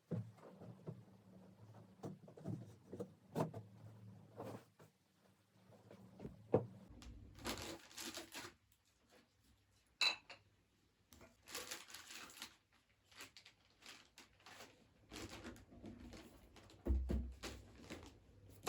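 Dishes and cutlery clinking and knocking as they are handled, a series of scattered clicks and knocks, with two brief hissing noises a third and a half of the way through.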